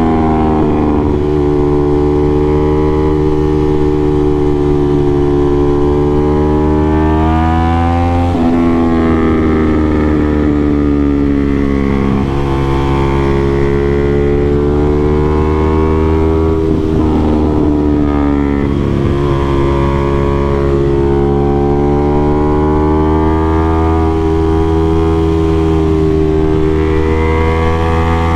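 Aprilia RS660 parallel-twin engine through an aftermarket SC-Project CRT exhaust, ridden hard. The revs climb steadily, then drop sharply several times (about a second in, around 8, 12 and 17 seconds) before climbing again, as the rider shifts or rolls off between bends.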